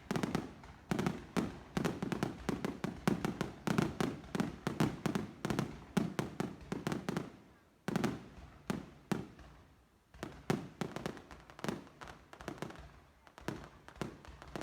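Fireworks going off in rapid, overlapping bangs and crackles. They thin out to scattered bangs after a short lull about eight seconds in.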